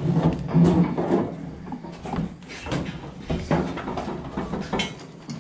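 Irregular knocks and clatter as a large Boer buck is worked into a goat handling stand.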